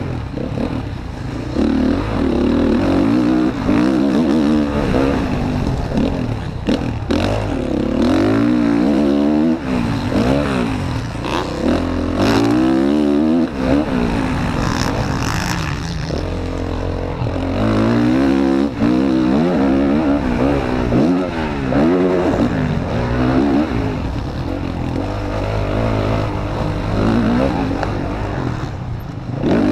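Motocross bike engine heard close up from an onboard action camera, revving hard and repeatedly rising and falling in pitch as the rider opens and shuts the throttle and shifts through the gears around the track.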